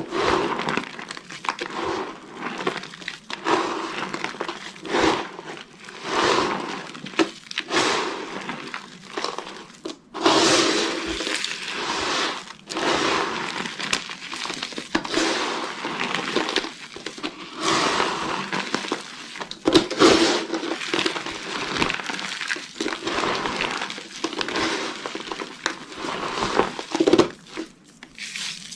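Dry soap crushed and crumbling, with a run of crunches and crackles and a longer unbroken stretch of crunching about ten seconds in.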